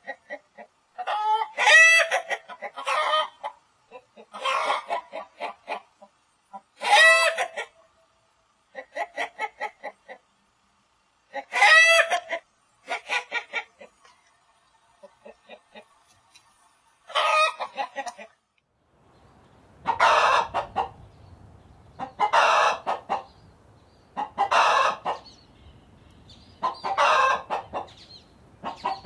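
Chickens clucking and cackling in bursts of quick, rapid calls, each burst ending in a louder pitched squawk. About two-thirds of the way through, a different recording starts with a background hum and calls repeating every couple of seconds.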